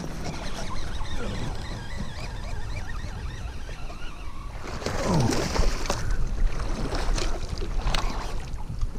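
Water sloshing and splashing at a fishing kayak, with wind on the microphone, as a bass strikes a soft-plastic Senko and is hooked. A few sharp splashes come in the second half.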